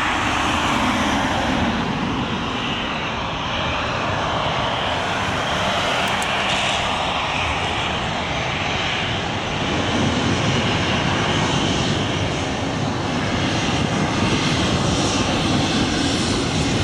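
Jet airliner's engines running close by: a loud, steady rush of noise with a faint high whine, growing a little louder about ten seconds in.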